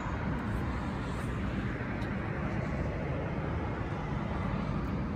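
Steady low rumble of a freight train of tank cars rolling slowly along the track.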